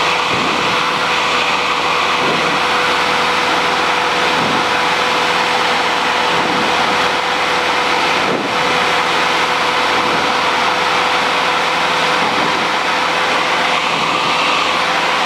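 Cessna 150's four-cylinder Continental O-200 engine and propeller droning steadily in the cockpit on final approach, with a constant steady tone over a broad rush of engine and air noise.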